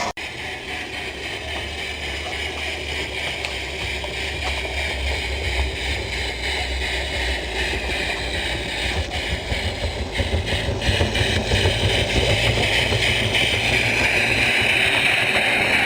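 Garden-scale model train running along outdoor track, a steady rumble growing louder as it approaches, with a higher whine rising near the end.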